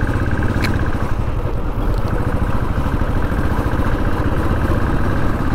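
Royal Enfield Classic 350's single-cylinder engine running steadily at low speed, passing through a toll lane.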